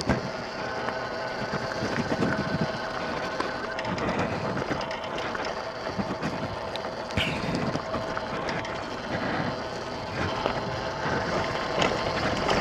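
Small single-cylinder four-stroke dirt bike engine running steadily at low speed, ridden slowly, with scattered clicks and crunches from the ride.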